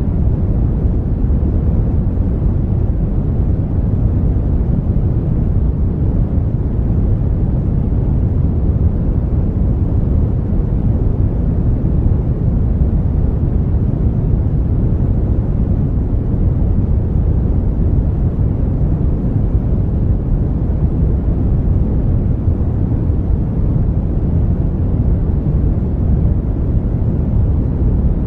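Brown noise: a steady, deep rushing hiss, loudest in the low end and dull in the highs, with no changes or events.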